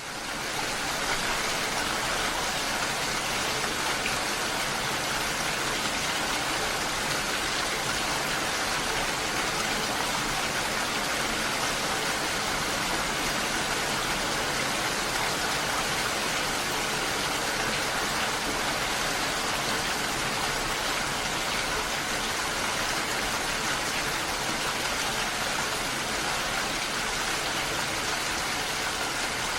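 Steady, even hiss of falling or rushing water, dense and unchanging, strongest in the upper range.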